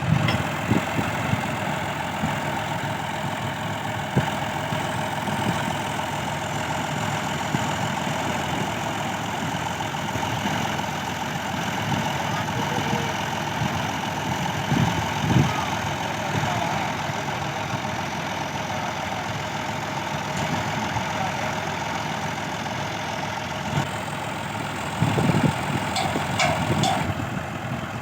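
Tractor engine running steadily at idle, with a few short clicks near the end.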